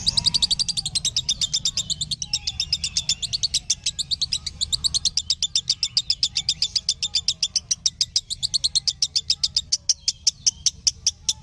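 Lovebird chattering in one long, unbroken run of sharp, high chirps repeated evenly several times a second: the long trilling song that lovebird keepers play to set their own birds singing.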